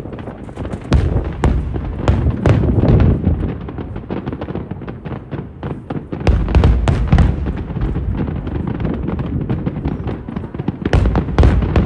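Aerial fireworks shells bursting in rapid succession: dense crackling over deep booms, swelling about six seconds in and again near the end.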